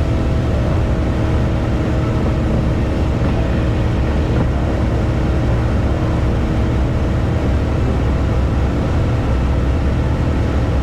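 A car driving at a steady speed: an even, constant engine drone and road rumble with no change in pitch.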